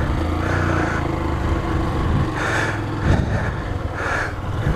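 Honda CG motorcycle's single-cylinder four-stroke engine running just after a bump start, its battery flat, the engine speed rising and falling a little.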